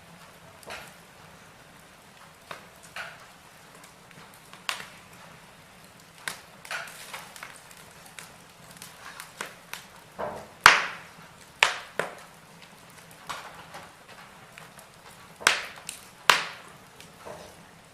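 Wood fire crackling in a fireplace: irregular sharp pops and snaps from the burning logs over a low hiss, with a cluster of louder pops in the second half.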